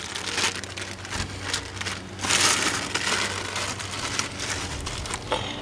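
Crinkling and rustling of the plastic packaging around new intake manifold gaskets as it is handled and opened, with small clicks and a louder rustle about two seconds in.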